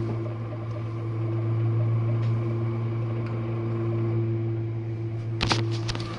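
Jenn-Air dishwasher running, a steady motor hum, with a few sharp clatters about five and a half seconds in.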